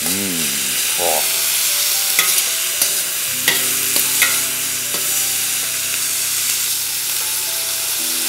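Vegetables and chicken stir-frying in a steel wok: a steady sizzle with a few sharp clicks of the stirring utensil against the pan. A steady low hum joins about three seconds in and stops near the end.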